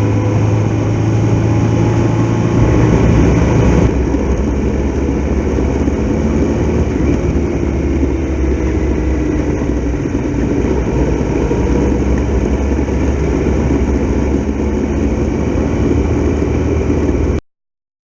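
Onboard sound of a Triumph Tiger Explorer XRx's three-cylinder engine running at road speed, mixed with rumbling wind noise on the camera microphone. It changes character abruptly about four seconds in and cuts off suddenly just before the end.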